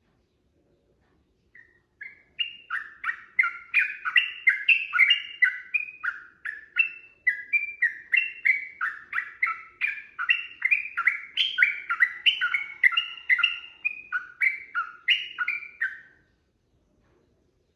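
Yellow-vented bulbul (trucukan) singing a long, fast run of short, clear notes, about three a second. It starts about two seconds in and stops shortly before the end.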